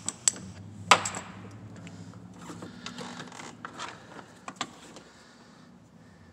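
Irregular clicks and knocks of hand tools being worked on a spark plug under the hood, the sharpest about a second in and a quicker run of small clicks in the middle, over a faint low hum.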